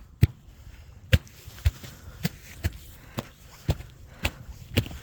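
Footsteps crunching through a crust of ice on snow, about two sharp steps a second.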